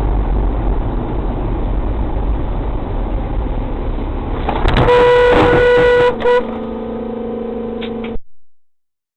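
Loud road and engine rumble from a moving vehicle. About five seconds in, a car horn honks for about a second and a half, then a lower steady tone holds until the sound cuts off suddenly near the end.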